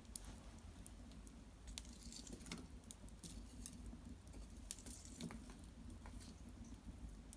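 Hearth fire crackling faintly, with irregular sharp pops and ticks scattered through it and a few louder snaps.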